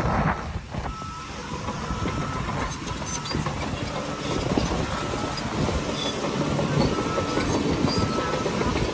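Shantui crawler bulldozer's diesel engine running with its steel tracks clanking and rattling as it moves, the level dropping a moment after the start and then holding steady.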